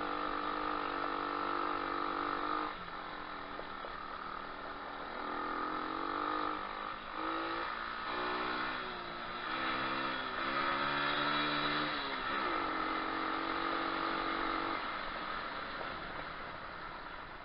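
Single-cylinder 125cc pit bike engine running under way. Its pitch drops sharply about three seconds in, then climbs and falls several times with throttle and gear changes, and it settles to a steady pitch near the end.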